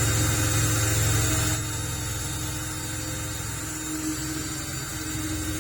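Ryobi cordless drill running, its small bit working a starter dimple into a tough aluminum handle tube. The motor hum drops in level about a second and a half in and then carries on steadily.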